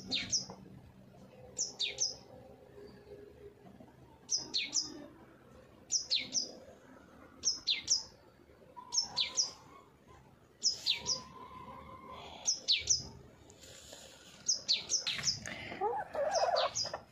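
A small bird repeatedly calling: a short burst of two or three sharp, falling notes, repeated about every second and a half.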